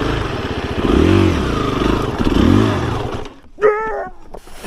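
Husqvarna FE 350 S dirt bike's four-stroke single-cylinder engine revving, its pitch rising and falling twice, then cutting off suddenly about three seconds in.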